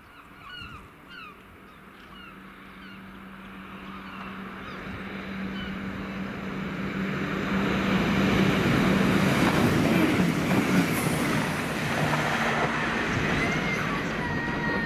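ScotRail Class 170 Turbostar diesel multiple unit approaching and running along the platform: its diesel engine drone and wheel-on-rail noise grow steadily louder, loudest about eight to eleven seconds in, with a thin high squeal near the end. Birds call in a string of short falling notes over the first few seconds.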